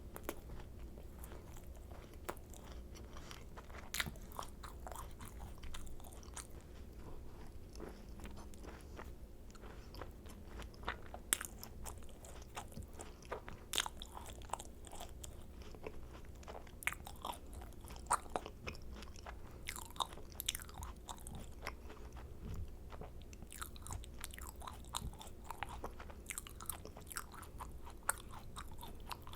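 Close-miked eating of macarons: the crisp shells crackle in many small sharp crunches as they are bitten and chewed, with soft chewing in between. A faint steady low hum lies under it.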